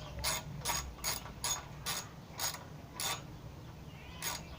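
Ratchet wrench being worked in short strokes, a rasping click roughly two to three times a second, pausing briefly near the end.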